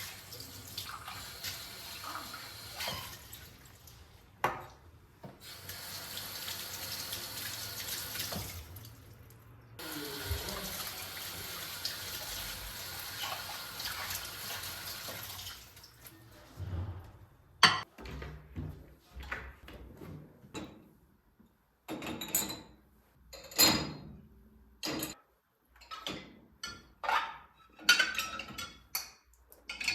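Kitchen tap running into a sink in two long spells, cut off briefly in between, then a string of sharp knocks and clatters from things being handled.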